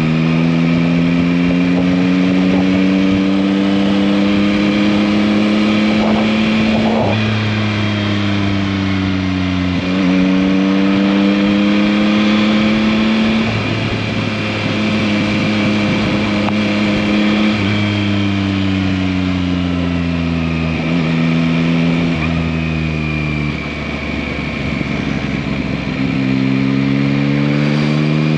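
2021 Yamaha MT-09's 890 cc inline three-cylinder engine running under way. Its pitch climbs slowly and shifts abruptly about every three to four seconds as gears are changed and the throttle opens and closes.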